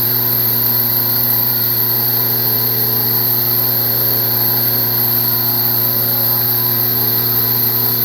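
Hydraulic log splitter's motor and pump running with a steady hum while the ram presses into a log.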